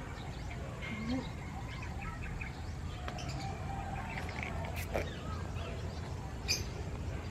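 Small birds chirping over a steady low background noise, with a sharp click about five seconds in and a fainter one about a second later.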